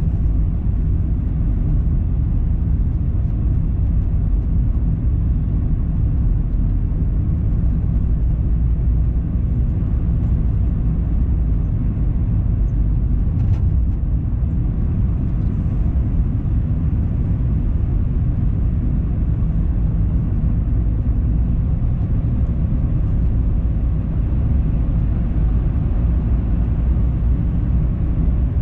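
A car driving steadily, with a continuous low rumble of tyre and engine noise that holds even throughout.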